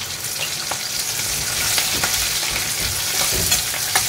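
Chopped onion, green chilli and curry leaves sizzling and crackling in hot oil with mustard and cumin seeds in a non-stick kadhai. From about halfway through, a steel spatula stirs the mixture with soft scrapes and knocks against the pan.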